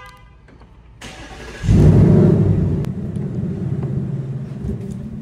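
Ford Mustang engine remote-started from the key fob: about a second in it cranks, catches with a loud flare of revs, then settles into a steady idle.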